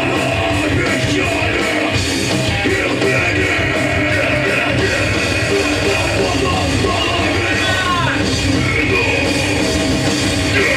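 Hardcore punk band playing live: distorted electric guitars, bass and drums, loud and dense, with shouted vocals.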